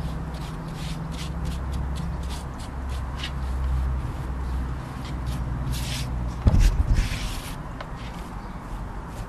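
Rustling and light scraping of leaves and plants being handled, with many short crackles and a louder bump about six and a half seconds in, over a steady low rumble.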